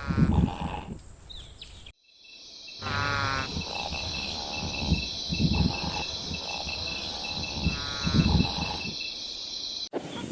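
Gazelle calls: about six short, rough calls, some in quick pairs. Insects chirp steadily in the background, and the sound drops out briefly about two seconds in.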